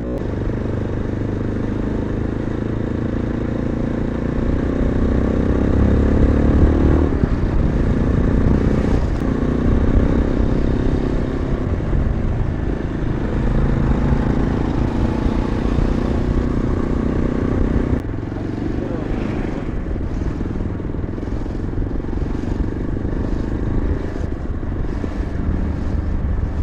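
Yezdi motorcycle's single-cylinder engine running under way, heard from the rider's position. The engine note rises as it accelerates, drops about seven seconds in as a gear is changed, then climbs again, with a steady rush of wind and road noise behind it.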